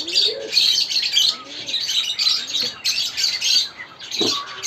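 A flock of aviary birds chirping continuously, many quick overlapping chirps.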